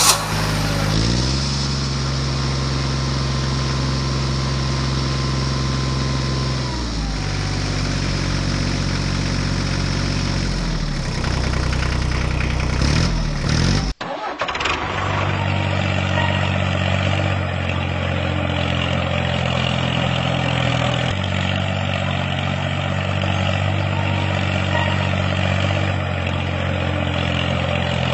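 An engine running steadily, its pitch stepping up and down a few times. About halfway through, the sound cuts abruptly to a different steady engine tone.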